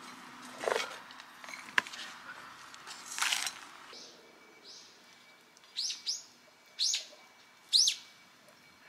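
Rustling and a sharp click of a plastic plant pot and soil being handled, then a small bird chirping several short, high notes that fall in pitch, in the second half.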